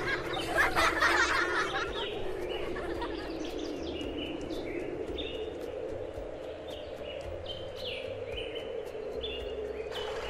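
Small birds chirping in quick short falling notes, many in a row, over a steady low ambient hum, louder and busier in the first two seconds.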